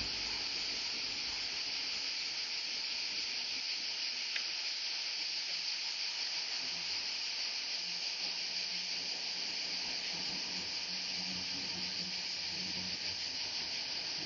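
River water rushing steadily: an even, unbroken hiss.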